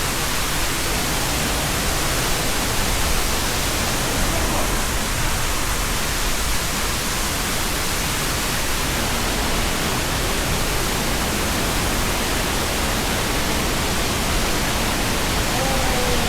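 Waterfall heard close up: falling water making a loud, steady, unbroken rush.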